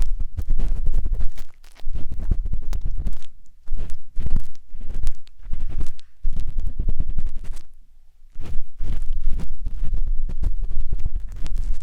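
Close scraping and rubbing inside the silicone ears of a 3Dio binaural microphone during ear cleaning: irregular scratchy strokes with a deep rumble, broken by short pauses about a second and a half in, around three and a half seconds, and around six and eight seconds.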